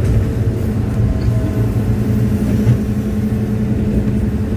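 Hitachi hydraulic excavator's diesel engine running at a steady speed, a low, even drone with no revving.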